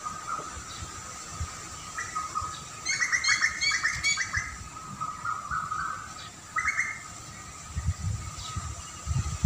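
Songbirds chirping, with a run of rapid repeated chirps about three seconds in and a shorter call near seven seconds. A faint steady high tone runs underneath, and low rumbling thumps come near the end.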